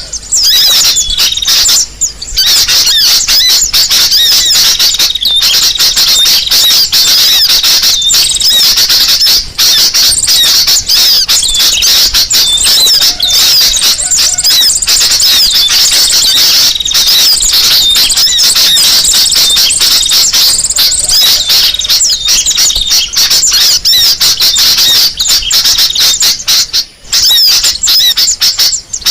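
Bird-lure recording of sunbird calls mixed with bulbul song: a dense, unbroken stream of loud, high-pitched chirps and trills, with a few brief gaps.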